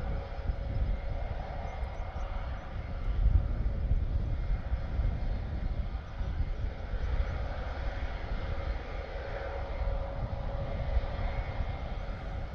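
An Airbus A400M's four TP400 turboprop engines running steadily at ground idle, a constant whine holding one pitch, as the aircraft waits before its takeoff run. A gusty low rumble of wind on the microphone runs underneath.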